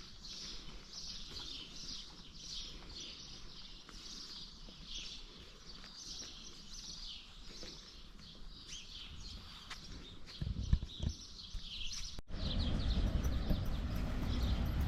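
Birds chirping over and over in short high calls. About twelve seconds in the sound cuts abruptly, and a louder low rumble begins under the chirps.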